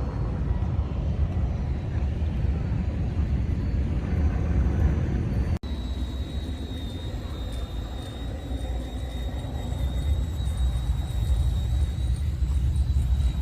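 Steady low motorcycle rumble with no clear change in pace. About five and a half seconds in it cuts out for an instant, and after that a thin high whine runs alongside it.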